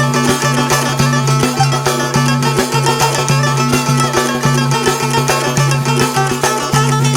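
Albanian folk dance tune played on plucked string instruments, with a steady beat and a low repeating bass line.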